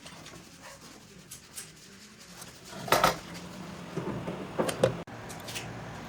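A few short knocks and clatters of objects being handled, the loudest about three seconds in, over a faint steady hum.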